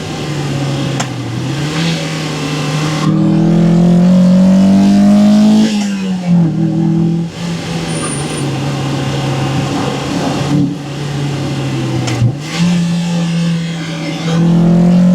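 1998 Mazda MX-5 Miata NB's stock 1.8-litre four-cylinder engine and intake under hard driving. The revs climb steeply from about three seconds in and drop suddenly near six seconds, as at a gear change. They wander through the middle, then climb again near the end.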